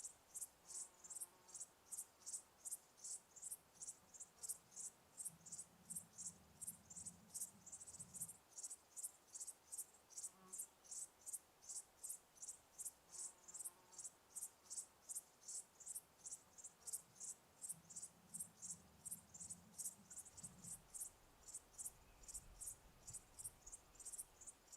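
Cricket chirping in a steady, even rhythm, about two to three high-pitched chirps a second.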